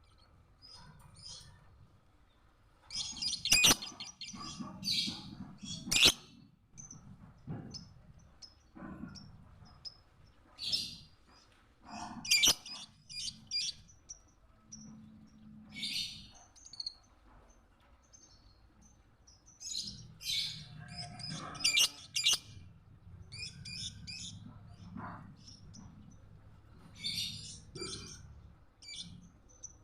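Lovebird chirping in rapid, shrill bursts that come in clusters every few seconds, with short quiet gaps between them and a few sharp clicks among the calls.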